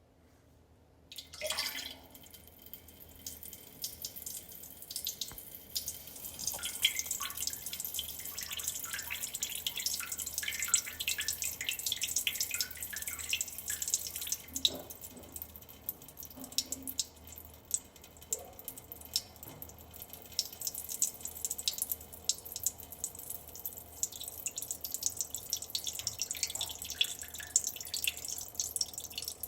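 A stream of urine splashing and trickling into water, starting about a second in and running on unevenly with many small drips and splashes.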